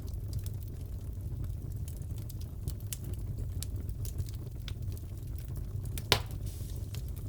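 Wood fire crackling in a fireplace: a steady low rumble of burning with scattered small crackles, and one louder pop about six seconds in.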